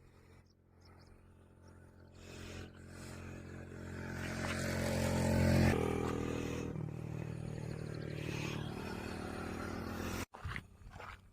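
A motor vehicle's engine running, growing louder to a peak about six seconds in, where its pitch drops as it passes, then carrying on steadily until it cuts off suddenly near the end.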